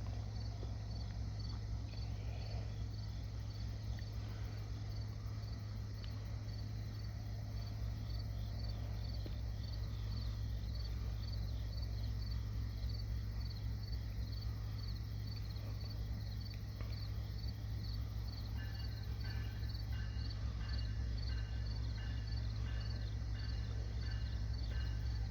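Crickets chirping in a steady rhythm, about two chirps a second, with a second insect joining in a pulsing call later on, over a steady low rumble.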